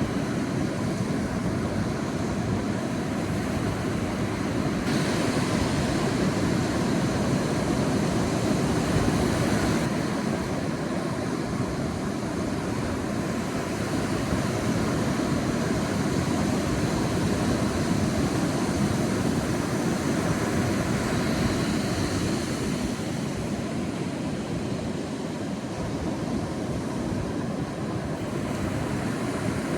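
Sea waves washing on a beach: a steady surf wash that swells and eases slowly.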